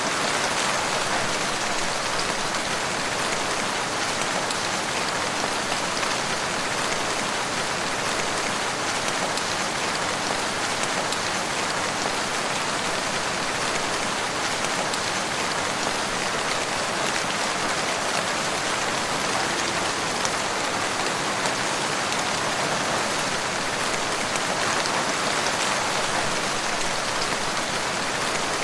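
Steady rain falling on a surface, an even, unbroken patter.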